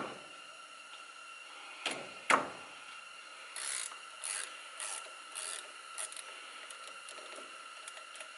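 Socket ratchet on a 7/16 brake-hose banjo bolt: two sharp knocks as the tool goes on, then four short ratcheting runs about half a second apart, then faint ticks.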